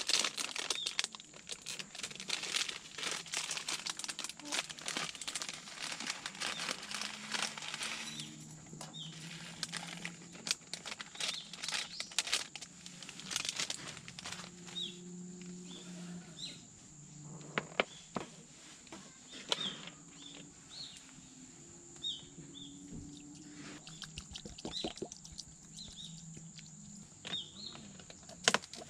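Crinkling and crackling handling noise for the first several seconds, then scattered clicks. Under it runs a steady high insect drone and short repeated chirps.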